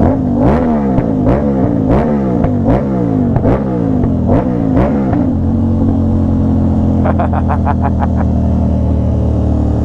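Aprilia RS660 parallel-twin through an SC Project S1 titanium exhaust, accelerating hard through about seven quick upshifts: the revs rise and are cut off by a sharp crack at each shift. It then settles to a steady cruise, with a short run of rapid exhaust crackles about seven seconds in.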